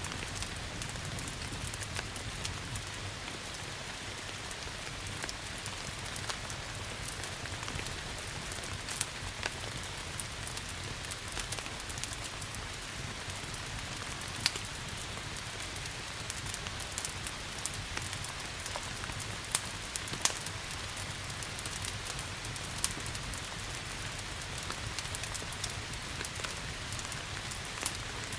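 Steady rain with the frequent sharp crackles and pops of a wood fire scattered through it.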